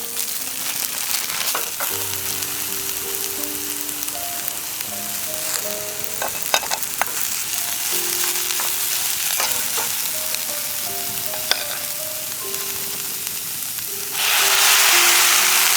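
Food sizzling in a frying pan, with a few sharp pops, over soft background music. Near the end a louder, brighter hiss suddenly takes over.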